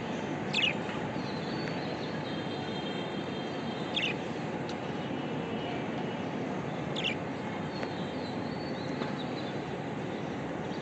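Budgerigars chattering softly, with three short sharp chirps spaced a few seconds apart over a steady background noise.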